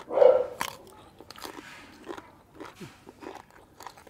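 People biting and chewing crisp raw vegetables close to the microphone: one loud mouth sound right at the start, then a run of small crunches.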